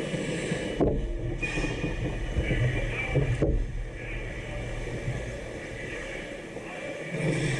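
Ice hockey rink noise during a game: a steady scraping haze with sharp knocks about a second in and again near three and a half seconds, and players' voices in the background.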